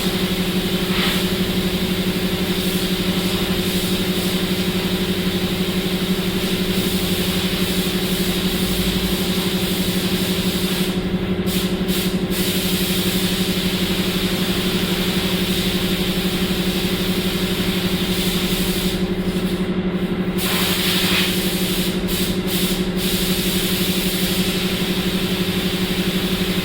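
Paint spray gun hissing over a steady mechanical hum, the spray breaking off briefly twice.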